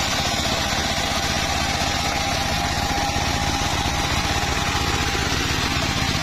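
Circular saw running steadily, a dense low rumble with a steady whine that fades about five seconds in.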